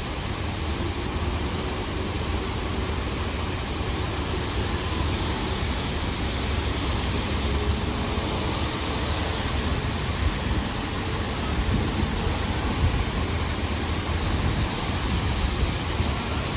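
Steady low rumble and hiss of vehicle noise, unchanging, with no engine start-up heard.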